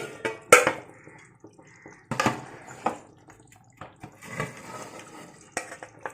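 Chicken gravy being ladled out of a cooking pot: the ladle knocks against the pot several times, with liquid pouring and dripping in between.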